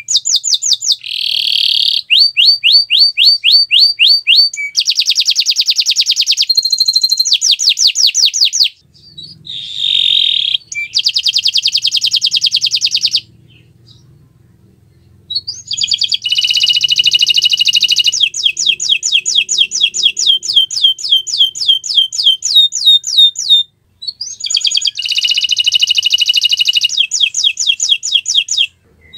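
Domestic canary singing loud, rapid trills: long phrases of fast-repeated high notes that switch from one trill type to another, with a few short breaks between phrases.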